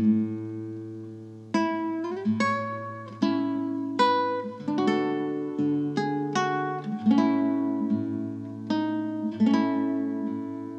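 Acoustic guitar music: chords strummed about once a second, each left to ring and fade before the next.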